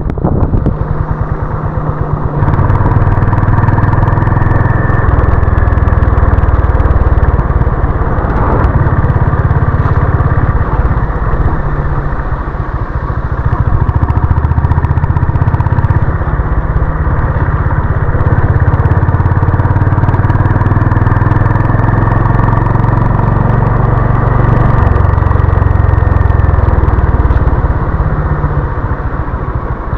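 Honda CB350 RS's single-cylinder engine running under way, its low note stepping up and down in pitch several times as the throttle opens and closes.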